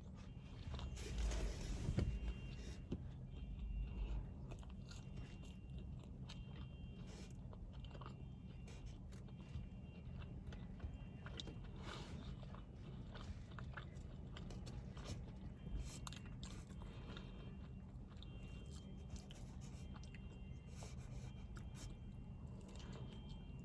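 Close-up eating sounds: chewing and biting into food, with small wet clicks and soft crunches, busiest in the first few seconds. A low steady hum sits underneath.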